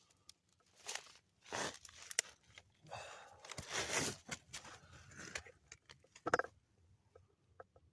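Footsteps crunching and rustling underfoot: irregular crunches for about five seconds that fade to a few faint ticks near the end.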